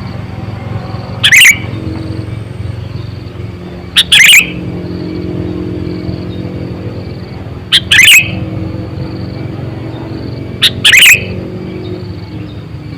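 Sooty-headed bulbul (kutilang) giving four short, loud calls about three seconds apart, over a steady low hum.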